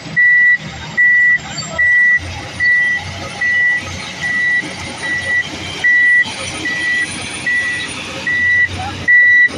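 A heavy machine's reversing alarm beeping steadily, one single-tone high beep about every 0.8 seconds, over the low rumble of its diesel engine.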